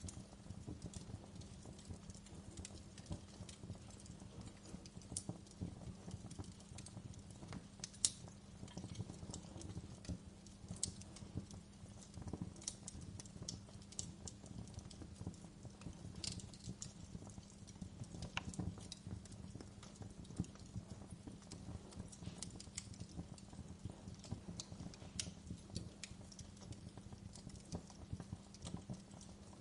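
Wood fire crackling in a fireplace: irregular sharp pops and snaps over a low, steady rumble of burning, with one louder pop about eight seconds in.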